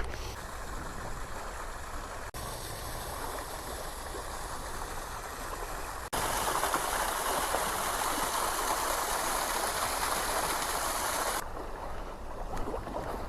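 Small waves washing on a Lake Erie beach: a steady rush of water that gets louder about six seconds in and drops back near the end.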